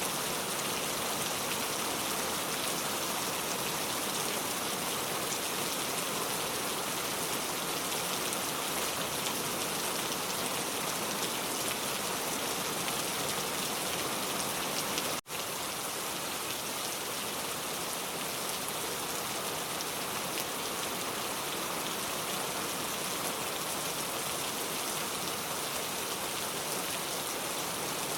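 Steady rain falling, an even hiss of many drops with no thunder, which cuts out for an instant about halfway through.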